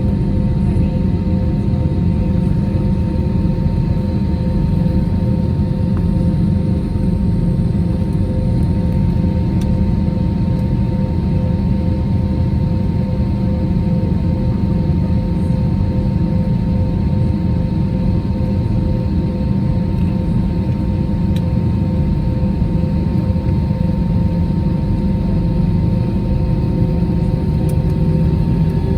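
Airbus A321 cabin noise with the jet engines at low power: a steady low rumble with a constant engine hum. A faint rising whine starts near the end.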